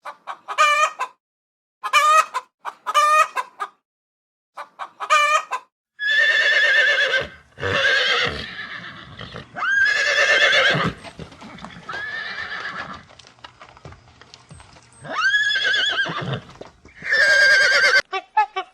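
Animal calls: four short groups of quick, repeated calls, then from about six seconds in five longer calls, each about a second long, that rise in pitch, waver and fall away.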